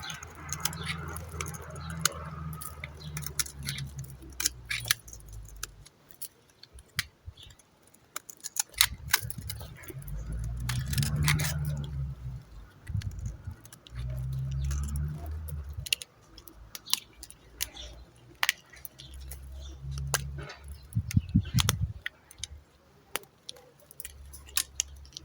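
Dry soap being cut with a knife, giving crisp irregular crackles and snaps, over a low rumble that comes and goes.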